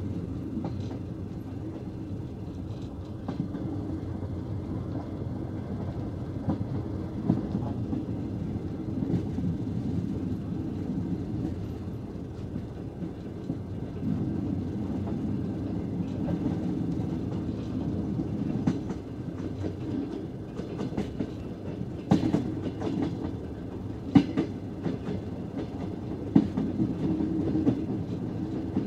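Passenger train carriage running at speed on the rails, heard at an open carriage window: a steady rumble of wheels on track with sharp clacks at the rail joints, which come more often in the last several seconds.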